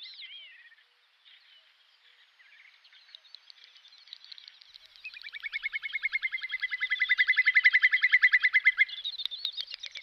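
Birds calling: a few faint calls at first, then from about five seconds a long, rapid trill of evenly spaced notes that grows loud and stops abruptly about nine seconds in, with other bird calls above it.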